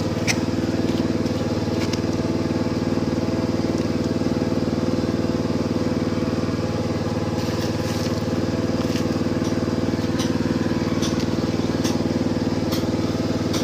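A small engine running steadily at an even speed, with a few light clicks over it.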